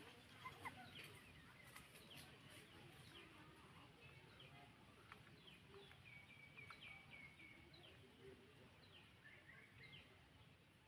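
Faint, high chirping calls from a bird or small animal: many short chirps that slide down in pitch, over faint background noise.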